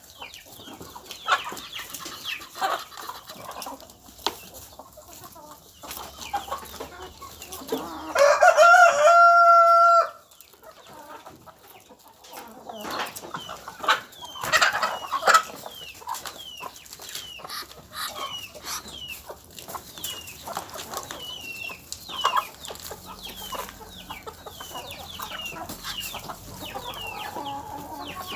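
Chickens clucking with many short, high calls. A rooster crows once about eight seconds in, the loudest sound.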